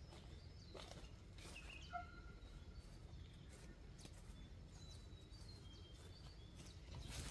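Faint open-air ambience: a short bird call about two seconds in, scattered faint high chirps, and soft rustling of footsteps through weeds and dry corn stalks.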